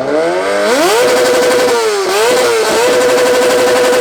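A vehicle's engine revved hard through a loud exhaust: the pitch climbs steeply about a second in, then is held flat at high revs with two quick dips in the middle.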